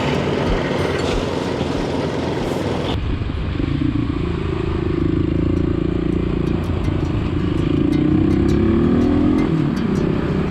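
Motorcycle being ridden on the road: rushing noise for the first few seconds, then after an abrupt cut the engine running steadily, its pitch rising as it speeds up near the end.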